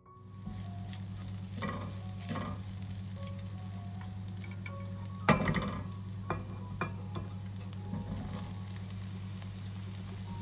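Food sizzling in hot oil in a frying pan, with a utensil scraping and knocking against the pan several times, loudest a little after five seconds in. A steady low hum runs underneath.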